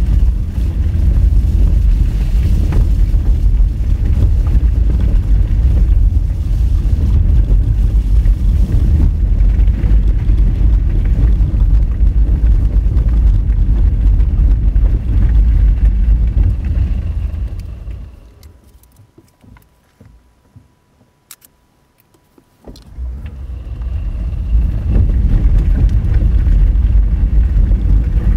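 A Honda Fit driving on a rough gravel forest road: a steady low rumble of tyres and running gear on the dirt. Shortly after the middle the rumble falls away almost to quiet for about five seconds, leaving only a faint steady tone and a few clicks, then comes back.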